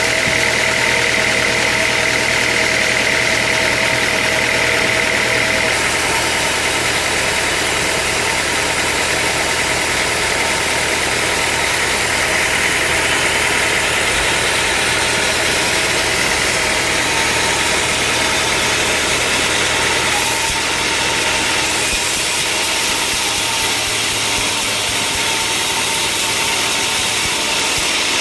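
Sawmill machinery running steadily, an engine-like drone with a high steady whine. The whine drops away about six seconds in, and the sound shifts again around twenty seconds in.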